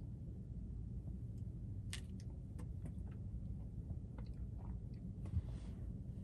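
A person chewing a bacon and egg breakfast burrito, with scattered small wet mouth clicks over a low steady rumble.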